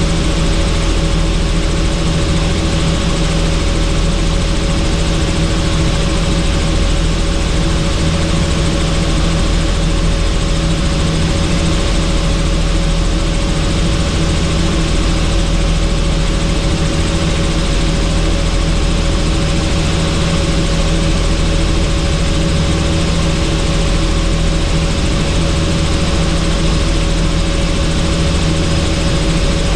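Helicopter in flight, heard from on board with the doors off: the rotor and engine run at a steady, unchanging drone under a loud rush of wind and airflow.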